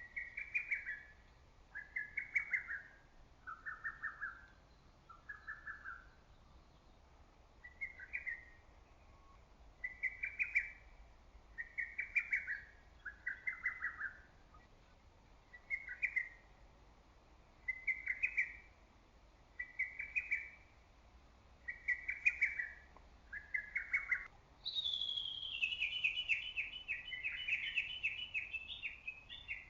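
Lesser cuckoo singing its short, loud song phrase of several quick notes, repeated about every two seconds, some phrases a little lower in pitch. About 24 seconds in, a faster, denser run of higher notes starts, sliding down at first, and continues to the end.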